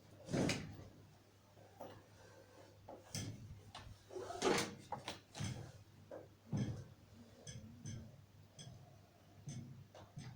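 Scattered knocks and clanks of metal parts and tools being handled, with a run of light metallic taps that ring briefly about two-thirds of the way in, over a faint steady low hum.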